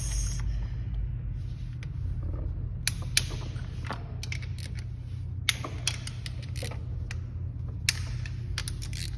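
Scattered sharp metallic clicks and taps of hand tools working the clutch cover bolts on a motorcycle engine, over a steady low hum. The bolts are stripped.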